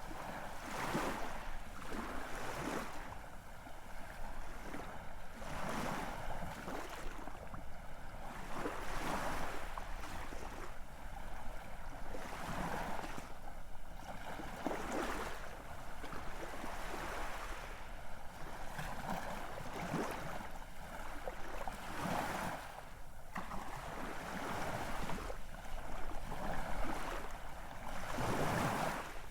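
Ocean waves washing onto a shore, a continuous rushing wash that swells and fades every couple of seconds.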